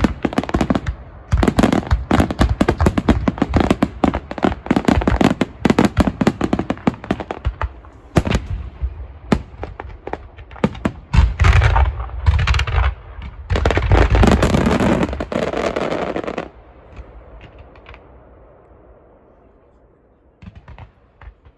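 Aerial fireworks going off in a dense, rapid barrage of bangs and crackles with deep booms among them. The barrage stops suddenly about sixteen seconds in and dies away, with a couple of faint pops near the end.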